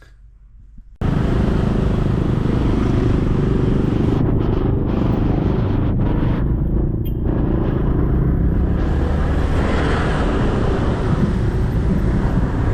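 A quiet start, then about a second in an abrupt cut to loud, steady rumbling noise with rough wind buffeting on the microphone.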